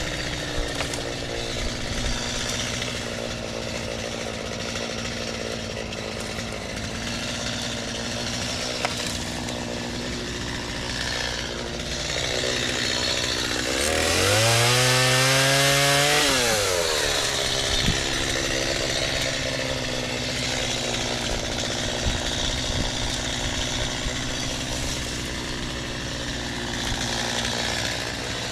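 Small two-stroke chainsaw running steadily, revved up once about halfway through and then dropping back to a lower pitch, while crepe myrtle branches are cut.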